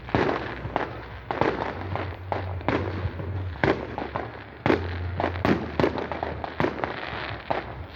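Fireworks going off: a rapid, irregular run of sharp bangs, one after another.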